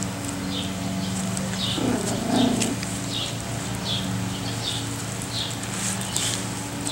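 A bird chirping repeatedly outdoors, a short high chirp about every two-thirds of a second, over a steady low hum. A brief low, rough sound comes about two seconds in.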